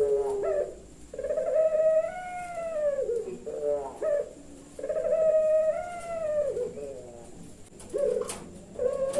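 Puter pelung dove cooing: long, drawn-out calls that arch up and then fall away, each ending in a few short broken notes, repeated about three times.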